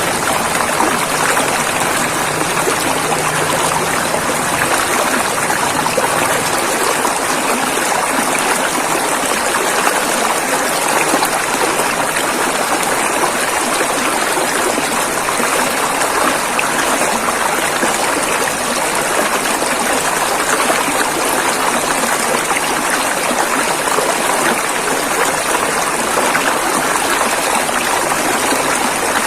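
River water flowing over rocks: a steady, continuous rushing.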